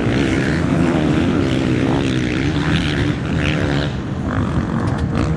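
Motocross bike engines running at high revs, their pitch wavering up and down as the bikes race round the track.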